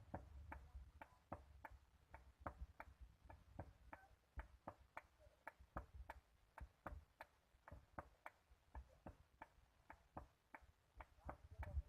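Faint, quick, even tapping, about three or four light taps a second.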